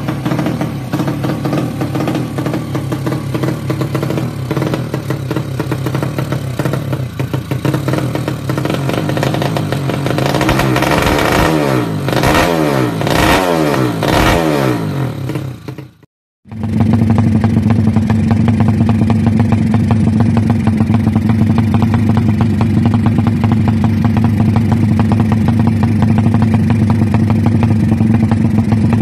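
Two-stroke underbone drag bike engines through JRM racing exhausts: the first is blipped, its pitch sweeping up and down several times, then a cut about halfway through to another bike running steadily and somewhat louder.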